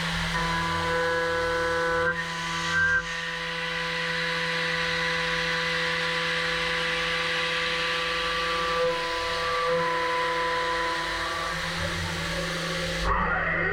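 HAAS Super Mini Mill machining an aluminium part: a steady whine of several held tones over a constant hiss. Near the end the hiss cuts off abruptly and the tones begin to fall in pitch as the spindle starts to wind down.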